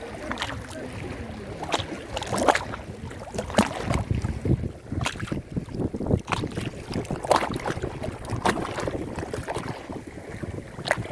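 Lake water lapping and splashing in small irregular waves, with wind rumbling on the microphone.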